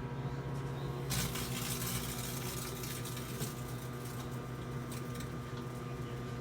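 Microwave oven running with a steady electrical hum, a chip bag heating inside. From about a second in, a hissing crackle of scattered clicks rises over the hum as the bag heats.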